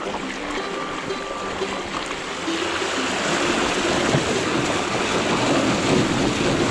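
River water rushing, a steady noise that grows louder about halfway through.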